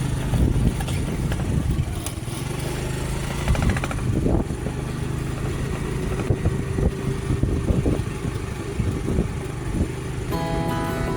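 Steady engine and road rumble of a motor vehicle, with uneven gusts of noise. Background music comes back in near the end.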